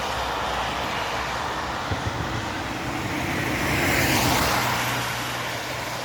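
Road traffic noise, with a vehicle passing that is loudest about four seconds in.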